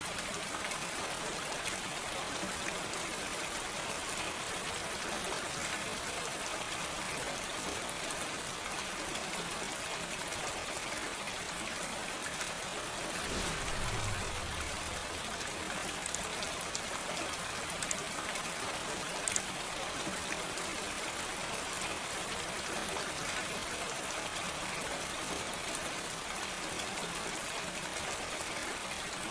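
Steady gentle rain falling, an even hiss with a few sharper drop ticks. A brief low rumble that drops in pitch comes about halfway through.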